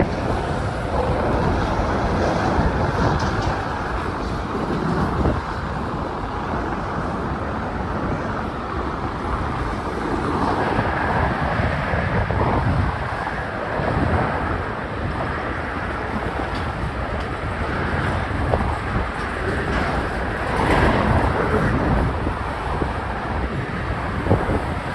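Steady noise of a passing train, with no horn sounding.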